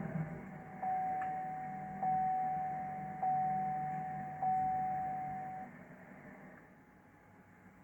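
Car warning chime in a 2011 Chevrolet Camaro SS: four identical chime tones a little over a second apart, each fading before the next, then it stops, over a low steady hum.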